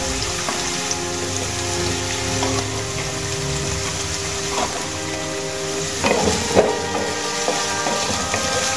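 Diced potatoes sizzling steadily in hot oil in a nonstick pan, with cumin seeds and dried red chillies. About six seconds in, a wooden spatula starts stirring them, adding scrapes and clacks against the pan.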